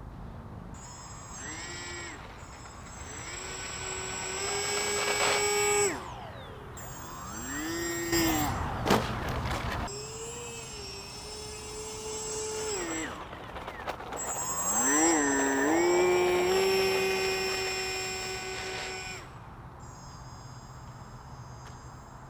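AeroScout RC plane's electric motor and propeller whining, throttled up and down in four runs that each rise in pitch, hold steady, then cut off. A sharp knock about nine seconds in.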